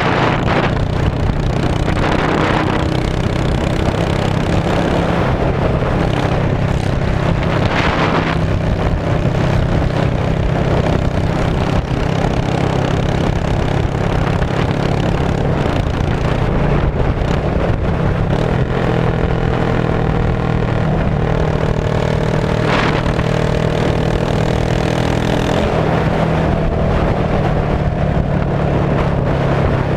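A straight-piped 2002 Yamaha V-Star 650's air-cooled V-twin running at a fairly steady speed, with a few short sharp noises over it about 2, 8 and 23 seconds in.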